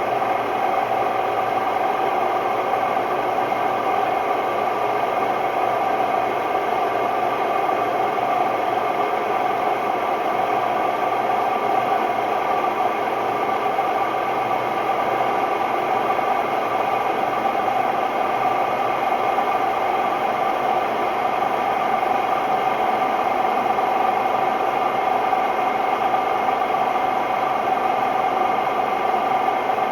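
Hotpoint Ultima WMD960 washing machine spinning, loud and steady, with the drone and rattle of its drum bearings: the bearings are bad.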